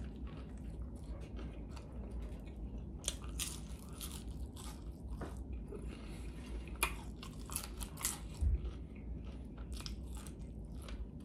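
Close-miked chewing and biting of fast food, a string of irregular wet, crunchy mouth clicks, with a low thump about eight and a half seconds in.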